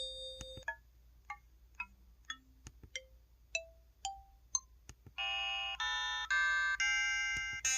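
EV-W350 mobile phone's keypad button tones playing one after another. A held note opens, then comes a string of short plinking notes about half a second apart at changing pitches. From about five seconds in, longer, fuller chord-like tones step along about twice a second.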